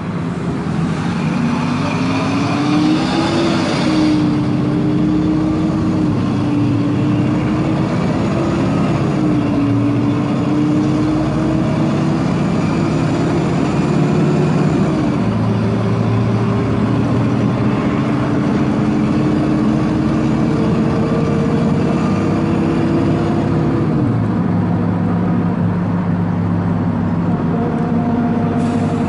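Four-cylinder engine of an Agrale MT 17.0 LE bus pulling under load. Its revs climb over the first few seconds, hold fairly steady with small rises and dips, then drop about 24 seconds in as the engine eases off.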